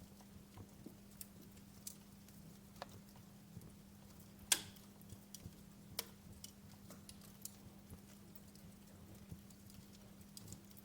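Wood fire crackling: irregular sharp pops and snaps, the loudest about four and a half seconds in, over a faint steady low hum.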